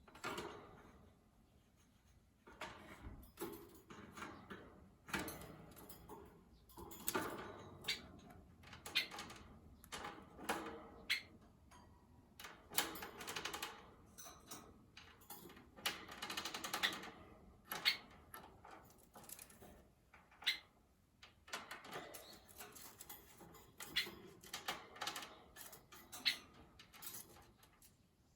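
Rosy-faced lovebird pecking and nibbling: irregular runs of small beak clicks, taps and scratchy rustles, with a few brief high chirps.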